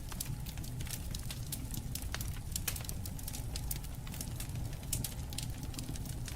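Campfire crackling: many quick, irregular sharp pops over a steady low rumble.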